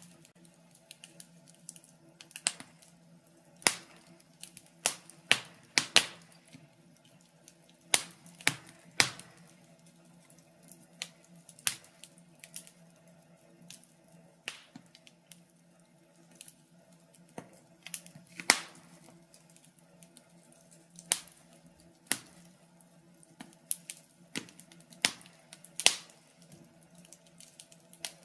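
Wood fire in a fireplace crackling: irregular sharp pops, one to three a second, over a faint steady low hum.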